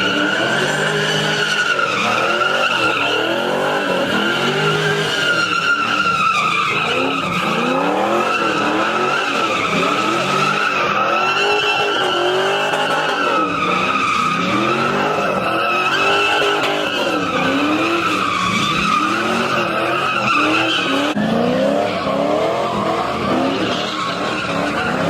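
A vehicle's tyres squealing without a break while it does donuts, the engine revving up and down again and again about every second and a half.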